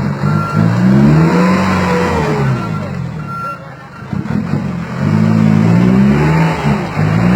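A 4x4 truck's diesel engine revving hard under load in two long pushes, its pitch rising and falling, easing off briefly in the middle. A reversing beeper sounds in short beeps over the first half.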